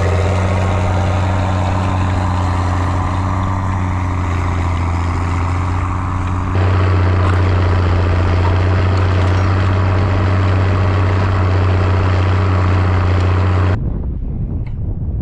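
Zetor ZTS 16145 tractor's diesel engine running steadily under the load of a deep-set cultivator, with a sudden jump in the sound about halfway through. Near the end the engine cuts off abruptly, leaving wind on the microphone and a few clicks.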